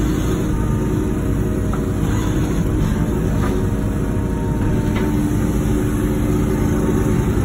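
Diesel engine of a Wacker Neuson ET145 excavator running steadily, with a couple of faint knocks around the middle.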